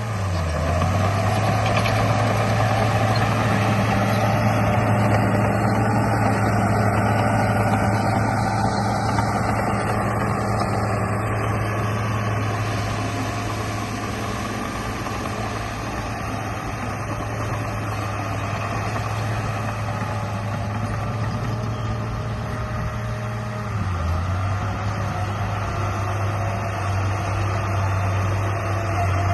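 Remote-control bulldozer running: a steady low motor hum with a higher whine over it, louder through the first half. The hum dips briefly in pitch about 24 seconds in, then steadies again.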